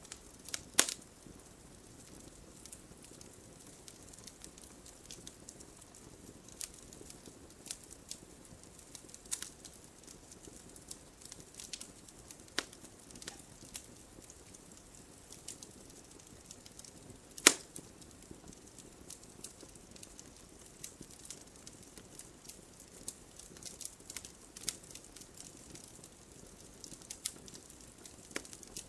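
Wood campfire burning, crackling and popping irregularly over a low steady hiss, with two sharp, louder pops about a second in and just past halfway.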